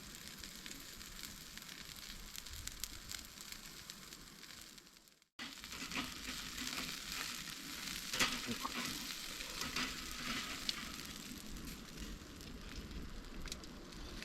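Food sizzling as it fries over a wood fire, a steady hiss. After a brief break about five seconds in, the sizzle is louder and broken by scattered light clicks and crackles.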